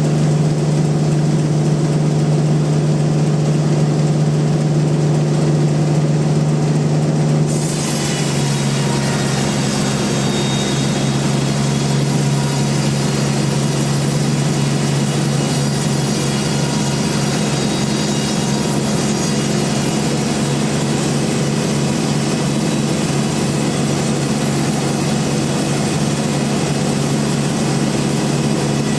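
Band sawmill running with a steady motor hum. About seven seconds in, a continuous hiss of the blade cutting through trembesi (rain tree) wood joins it, and the motor note drops a little under the load of the cut.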